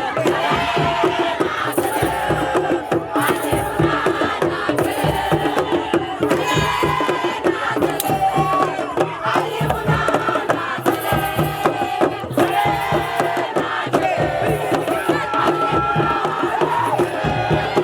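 A crowd chanting and singing together over a fast, steady rhythmic beat.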